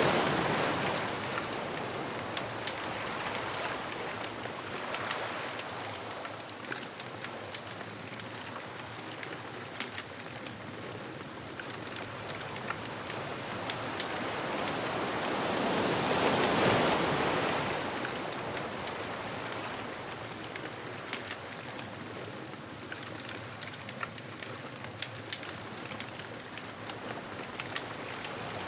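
Surf washing onto a beach in slow swells, one peaking at the start and another about halfway through, with a bonfire crackling and popping throughout.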